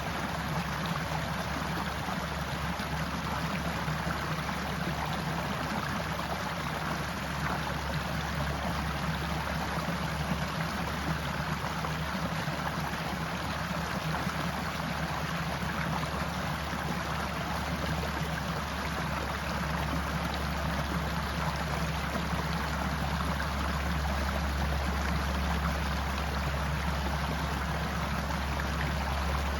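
Forest stream flowing steadily: an even, continuous rush of water.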